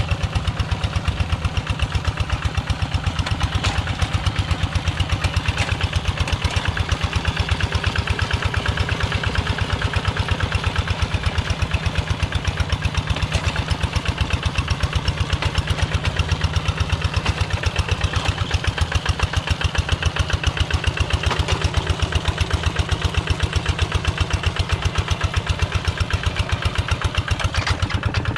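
Single-cylinder diesel engine of a Quick G1000 two-wheel hand tractor running steadily with a fast, even firing beat.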